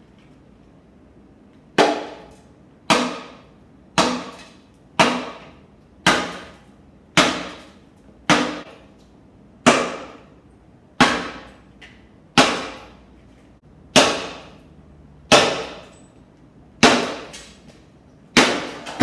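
Hammer blows on the steel of a truck's rusted rear frame cross member, about once a second, each strike ringing briefly, while the riveted cross member is knocked out of the frame. The blows begin about two seconds in and come slightly further apart toward the end.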